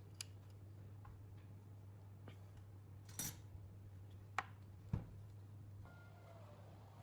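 A few scattered light clicks and taps, with one brief scraping rustle about three seconds in, over a faint steady hum.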